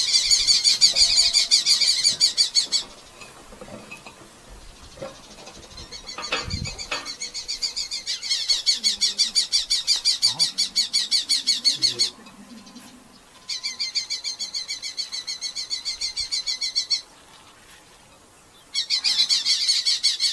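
Red-footed falcon giving fast, rhythmic strings of high, shrill kee-kee calls in four bouts, with short pauses between them.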